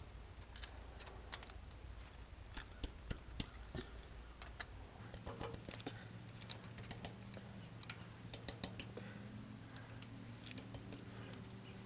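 Faint, irregular clicks and light metallic taps of a wrench working loose the bolts on a tractor's hydraulic filter cover plate.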